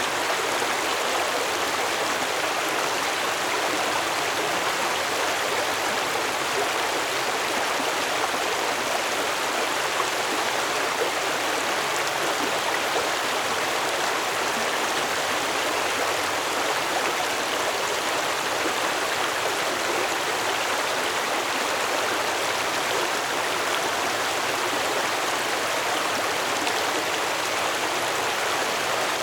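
Stream water flowing steadily, an even rushing babble with no breaks or changes.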